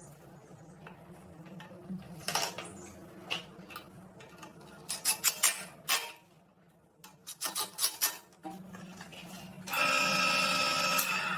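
Metal parts and tools clinking and knocking in short scattered taps, with a quick cluster about halfway through. Near the end a louder steady multi-tone hum starts and keeps going.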